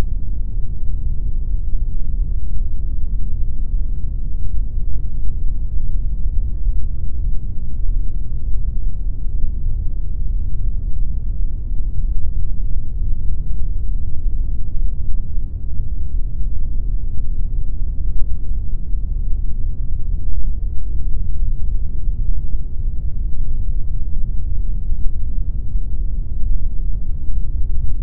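Steady synthetic pink noise: a deep, even rush with most of its weight in the low bass and almost nothing above about 2 kHz.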